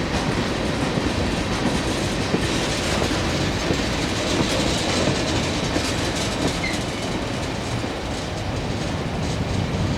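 Freight train cars rolling past on the rails: a steady rumble of steel wheels on track with scattered clicks.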